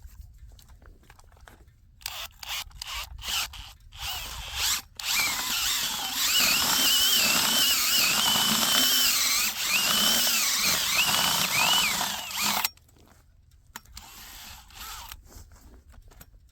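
Power drill boring a dirt hole into clay ground. A few short bursts come first, then about eight seconds of continuous running with the pitch wavering up and down under load, and it stops abruptly.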